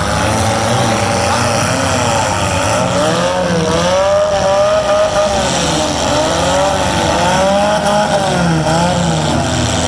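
Four-cylinder demolition derby car engines revving, their pitch climbing and falling again and again.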